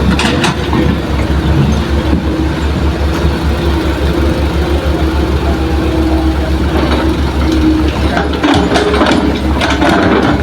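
Heavy diesel engine of earthmoving machinery running steadily, with a fast, even low throb and a steady whine through the middle. Some knocking and clatter comes in near the end.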